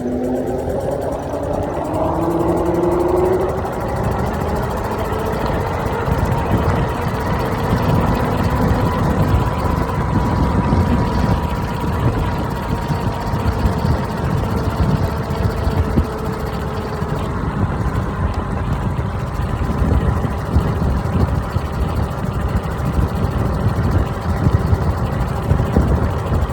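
iENYRID M4 Pro S+ electric scooter's motor whining as it rides downhill, rising in pitch over the first few seconds as it gathers speed and then holding steady. Wind rumbles on the microphone throughout.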